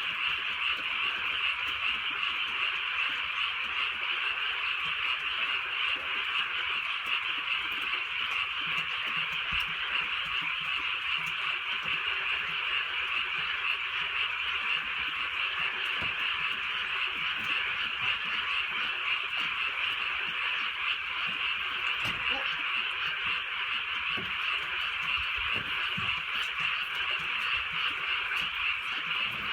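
A dense chorus of many frogs calling together, steady and unbroken.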